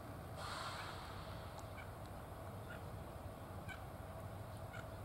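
Diesel railcar running slowly with a steady low rumble, a brief hiss about half a second in. Short high chirps repeat about once a second over it.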